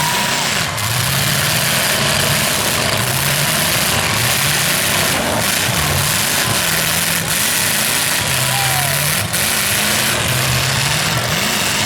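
Demolition derby cars' engines running loud and revving, the pitch rising and falling again and again over a steady wash of engine noise.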